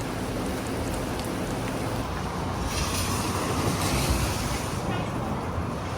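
Steady rushing of typhoon wind and rain, swelling for about two seconds near the middle.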